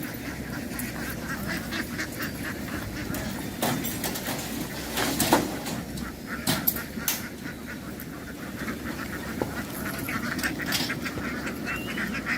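A flock of ducks quacking continuously, with several louder sharp knocks about four to seven seconds in.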